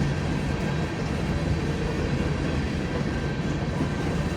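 Freight train cars rolling past on the rails, a steady noise of wheels on track.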